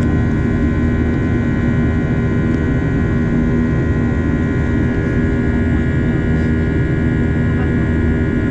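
Jet airliner cabin noise in flight: the steady rumble of the engines and rushing air, with a constant multi-tone hum over it.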